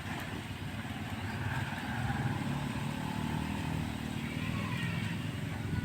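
A vehicle engine running steadily, motorcycle-like, with faint bird calls above it.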